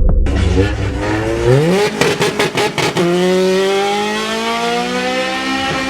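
Car engine revving hard: its pitch climbs, it breaks up in several quick cut-outs around two to three seconds in, then holds a high note that keeps rising slowly.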